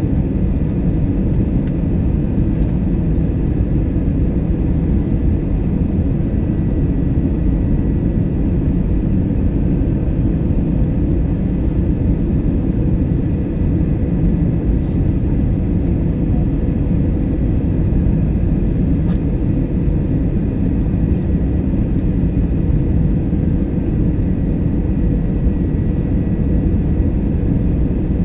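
Steady low rumble of a passenger airliner heard from inside the cabin: engine and airflow noise with a faint steady hum, unchanging throughout.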